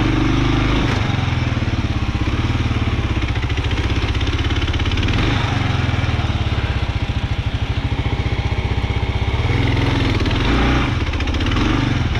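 Kawasaki KLR 650's single-cylinder four-stroke engine running at low revs, its firing pulses coming steadily, with the revs picking up briefly near the start and again about ten seconds in.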